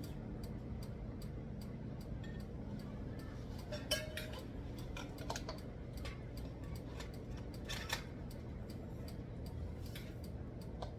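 Metal rod parts being handled and fitted together: light clinks and rattles, the two loudest about four and eight seconds in, over a steady ticking and a low hum.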